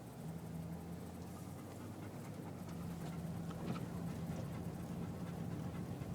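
A dog panting inside a moving car, over the steady low hum of the car's engine.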